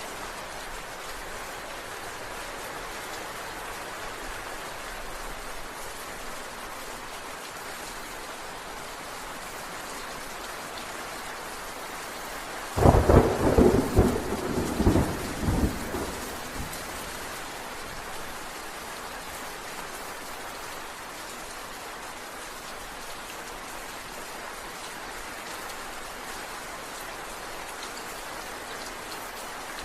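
Steady rain falling, with a clap of thunder about thirteen seconds in: a loud crackling burst of cracks and rumbles that dies away over about four seconds.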